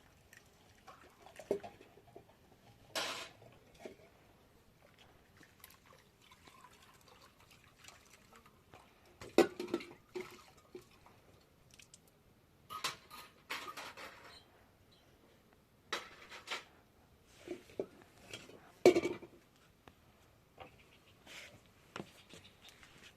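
Scattered clinks and knocks of dishes and utensils being handled, a dozen or so short clatters with quiet gaps between them; the sharpest come about nine and nineteen seconds in.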